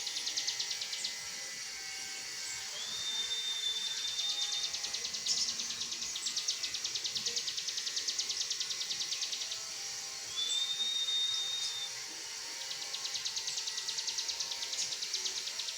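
Cigun songbird singing in the fast 'tembakan laser' (laser-shot) style. Its song is long runs of rapid, buzzy, high-pitched ticking trills. Twice, near 3 s and again near 10.5 s, the trills break off for one long level whistle, and short sharp high notes are scattered in between.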